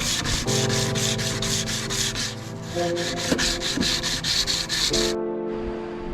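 Hand sanding with quick, even back-and-forth strokes, about five a second, which stop abruptly about five seconds in.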